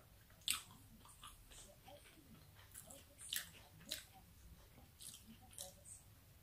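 Close mouth sounds of chewing a chicken fajita wrap: faint, scattered wet smacks and clicks, the sharpest about half a second in.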